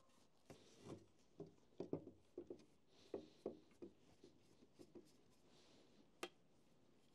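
Faint, irregular soft knocks and taps of hands working with wooden objects, about fifteen over five seconds, then one sharp click about six seconds in.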